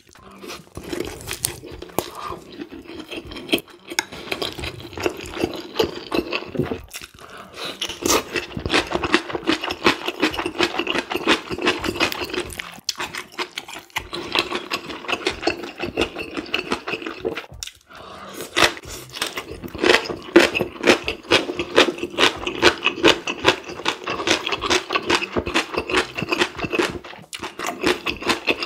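Close-miked chewing and mouth sounds of a person eating rice, noodles and spicy stir-fried squid and pork: a dense run of rapid, wet clicks with a few short pauses between mouthfuls.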